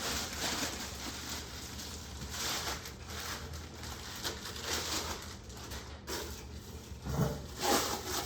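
Rustling and handling noises, a string of irregular short scuffs over a low steady hum, as the heavy roll of DTF film and its packaging are handled.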